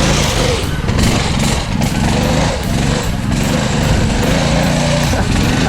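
Small go-kart engine running steadily under throttle, loud throughout.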